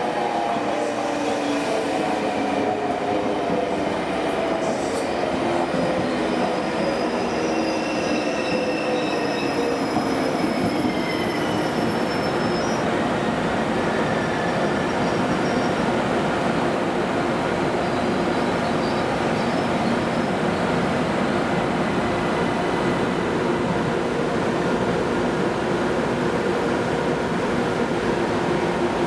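ICE high-speed train braking into the station. The whine of its electric drive falls steadily in pitch over the first ten seconds, with thin high wheel squeals above it. After that comes a steady hum as it rolls slowly or stands.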